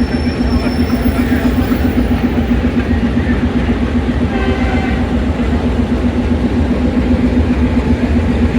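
AGE30 'Blue Tiger' diesel-electric locomotive running steadily at idle, a constant low rumble with a steady hum.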